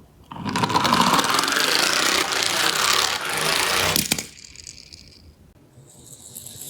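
A toy garbage truck rolling fast down a steep ramp, its wheels rattling for about four seconds before it stops with a knock.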